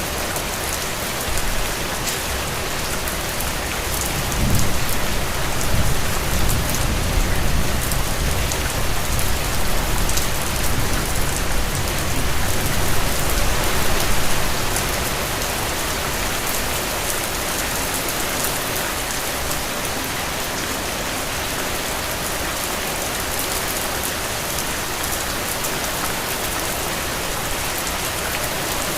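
Steady rain falling on hard surfaces, an even hiss. About four seconds in, a low rumble swells under the rain and dies away some ten seconds later.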